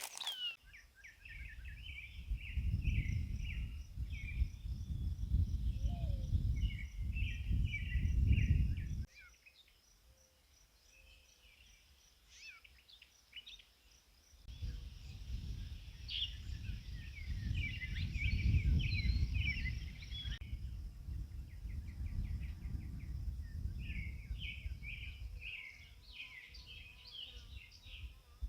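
Birds chirping in short repeated phrases over a steady high insect buzz, with a low rumbling noise underneath that drops out for several seconds in the middle.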